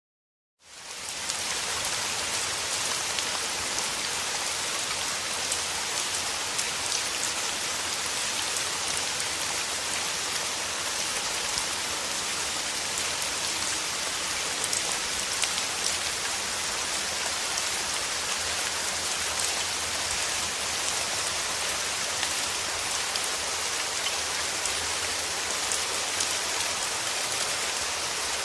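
Steady rain falling, an even hiss with the fine patter of separate drops. It fades in from silence within the first second and then holds level.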